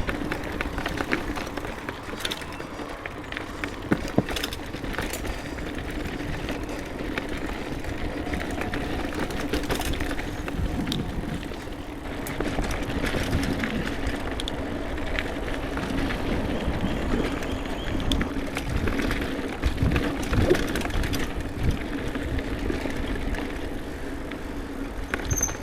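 Mountain bike riding on a dirt singletrack: tyres rolling over the trail, with scattered clicks and knocks of the chain and frame over bumps and a steady hum underneath.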